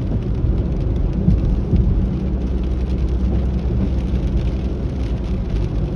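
Steady low road and engine rumble inside a moving truck's cabin, with rain on the vehicle, and a couple of light knocks about a second and a half in.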